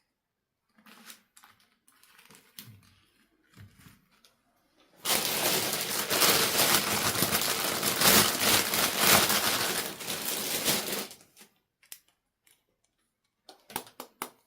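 Handling noise: light clicks and rustles, then about six seconds of loud, dense crinkling and crushing, like packaging or wrapping being scrunched. A few sharp clicks follow near the end.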